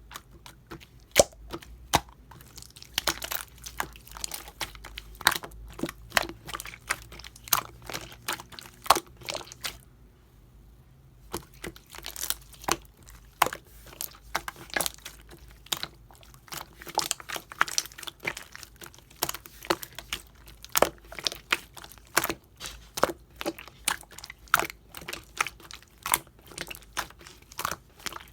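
Yellow marbled slime being handled and kneaded, giving a quick, irregular run of sharp clicks and crackles, with a short lull about ten seconds in.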